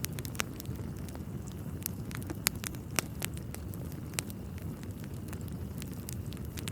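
Wood fire crackling in a fireplace: irregular sharp pops and snaps over a steady low rumble, with two louder pops a little before the middle.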